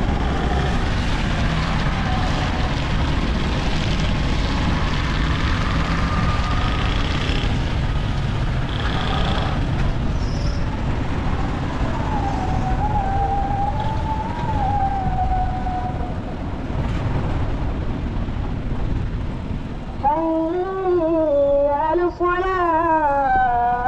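Steady rumble of a vehicle on the road, with faint wavering tones above it. About twenty seconds in, music with a wavering melody comes in.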